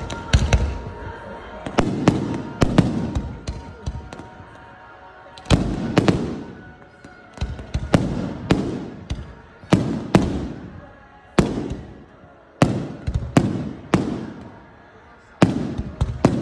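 Fireworks display: aerial shells bursting overhead in a quick series of sharp bangs, about one a second, each trailing off in a fading rumble. There are short lulls about four seconds in and again past the middle.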